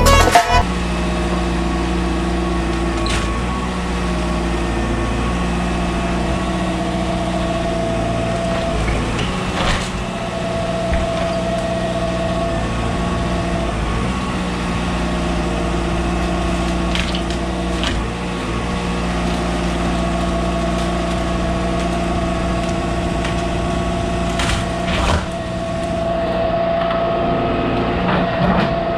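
Volvo ECR 145 DL excavator's diesel engine running steadily, with a higher tone that comes and goes as the hydraulics work. A few short knocks are heard along the way.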